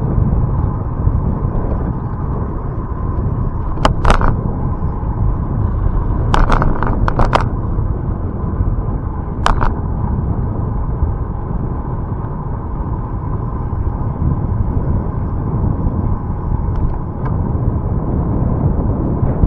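Steady low rumble of wind and road noise on a camera riding along on a bicycle, with a few sharp knocks, a cluster of them about six to seven seconds in.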